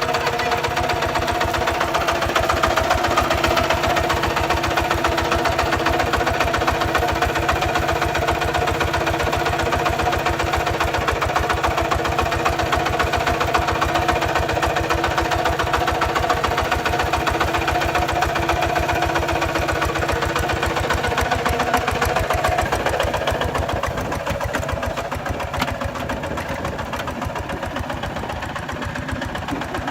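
Kubota RT140 single-cylinder diesel engine running with a steady, rapid chug, a little quieter in the last several seconds.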